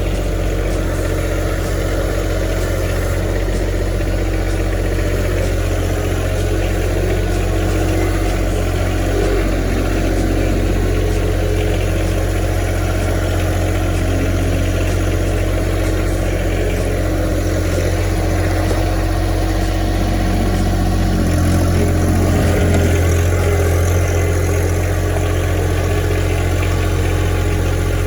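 Tractor engine running steadily under way, its note shifting about three-quarters of the way through.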